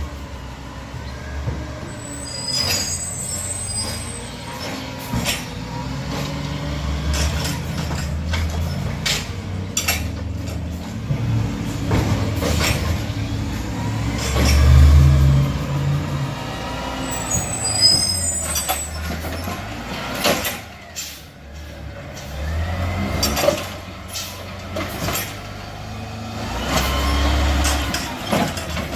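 Garbage truck at work: its diesel engine revs up and down in repeated surges, with many knocks and clanks and two short air-brake hisses, about two and a half seconds in and again around seventeen seconds.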